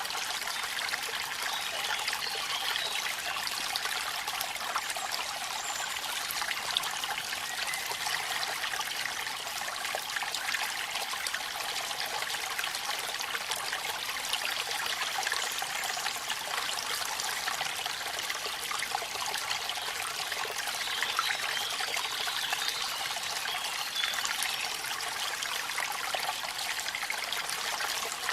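Waterfall and rain: a steady splashing, trickling rush of falling water, with fine patter throughout and no deep rumble.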